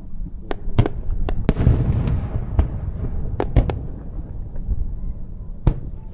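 Aerial fireworks shells bursting in an irregular series of about nine sharp bangs. The loudest comes about a second and a half in and trails off over about a second, with a steady low rumble underneath.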